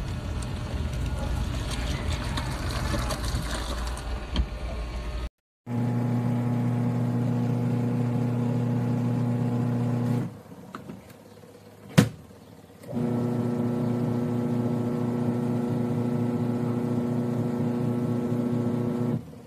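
A mini washing machine's electric motor humming steadily. It stops for a few seconds with a single sharp click, then hums again and cuts off near the end. Before that comes a rougher rumbling noise, which ends abruptly.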